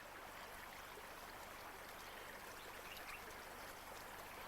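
Stream water running steadily over rocks, a continuous faint rushing and trickling.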